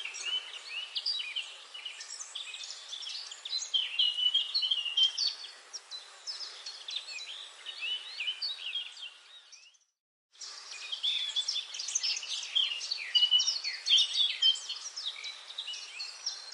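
Dense chorus of many birds chirping and calling over one another in quick, short chirps and trills. About ten seconds in, the chorus fades out to a moment of silence and comes back, like the join of a looped recording.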